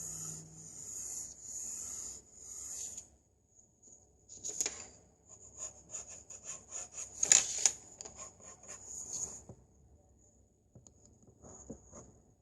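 Drawing strokes scratching on paper in runs of quick, short strokes, with a pause about three seconds in and a longer quiet stretch from about nine and a half seconds.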